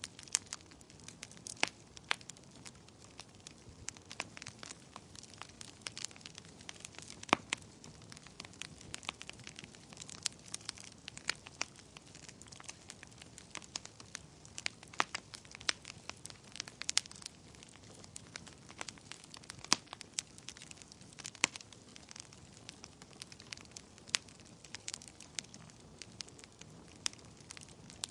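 Wood fire burning in a fireplace, with a steady low hiss and frequent sharp, irregular crackles and pops.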